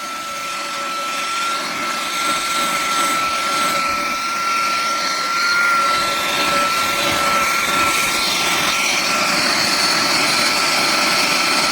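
Cordless handheld car vacuum running on its highest of three speeds: a steady high-pitched motor whine over the rush of air, getting a little louder in the first few seconds and then holding.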